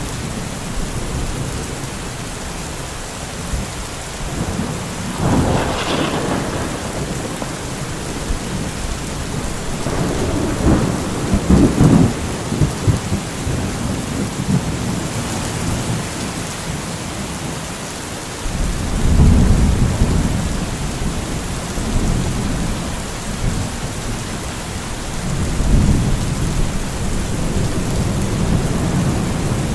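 Steady rain with rolls of thunder rumbling over it, the loudest about ten to twelve seconds in and others near six, nineteen and twenty-six seconds.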